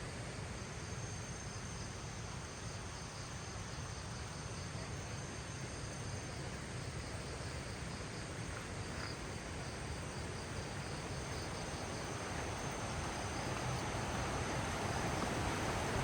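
Insects, crickets by the sound of it, trilling steadily at a high pitch over a broad background hiss that grows louder toward the end.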